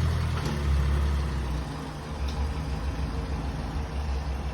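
An old car's engine running with a steady low hum after being restarted following a breakdown.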